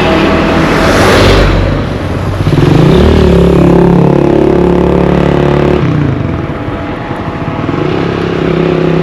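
Motor vehicles running close by on the road. A loud rush of noise in the first second or so gives way to a steady engine note, which breaks off suddenly about six seconds in; another engine note comes in near the end.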